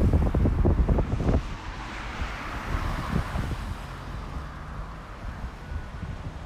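Wind buffeting the microphone, cutting off suddenly about a second and a half in, leaving a quieter background of road traffic.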